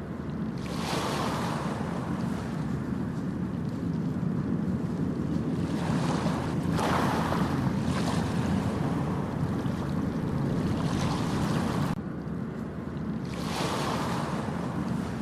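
Ocean waves breaking and washing up the beach, each surge swelling and fading every few seconds over a steady low rumble of surf, with wind buffeting the microphone.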